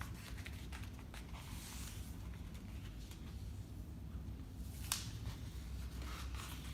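A sheet of paper rustling and crinkling as it is handled and folded, with one sharp crackle about five seconds in.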